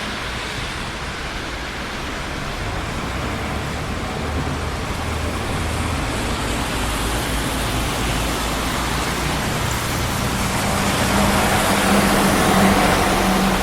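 Steady traffic on a busy city street, cars rolling past with a continuous rush of tyre and engine noise. Near the end a vehicle comes closer and louder, its engine humming with a steady low note.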